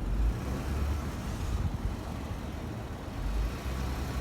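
Pickup truck running off-road, a steady low engine and drivetrain rumble with rough-ground noise, while the truck is stuck or barely moving.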